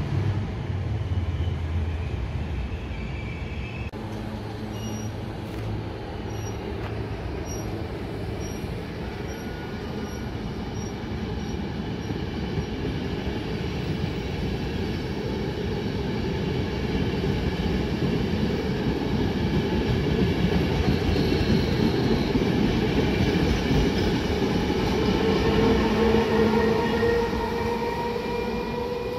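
A regional passenger train pushed by an E.464 electric locomotive rolling past close by, its wheels rumbling on the rails and growing louder. Near the end, as the locomotive comes by, a rising whine from its electric traction gear sounds as it gathers speed.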